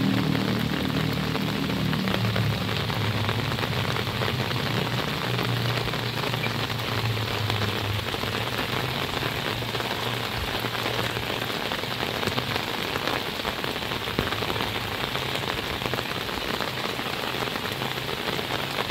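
Heavy rain falling steadily, with water dripping from the roof eaves. A low hum sits under it at the start and fades out about two-thirds of the way through.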